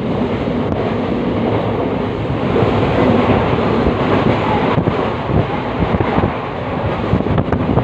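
Passenger train running, heard from on board the coach: a loud, steady rumble with a dense, irregular rattle.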